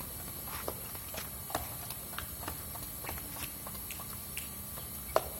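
Light, irregular taps and clicks, a few a second, over a low steady hiss, with one sharper tap about five seconds in.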